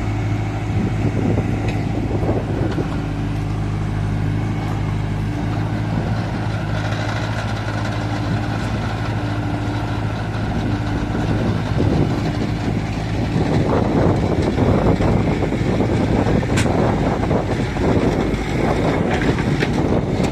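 Excavator diesel engine running steadily. A louder, rougher noise joins it about two-thirds of the way through.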